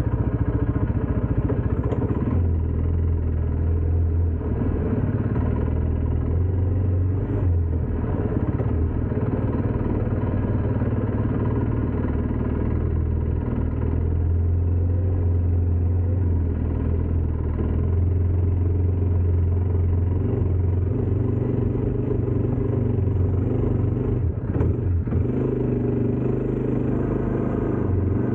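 ATV engine running steadily with a deep, continuous drone, dipping briefly a couple of times.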